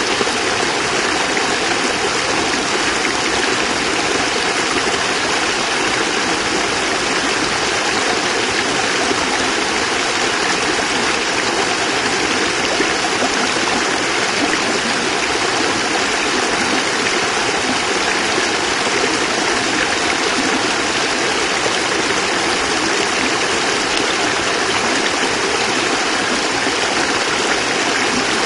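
A small cascade of water splashing and rushing steadily.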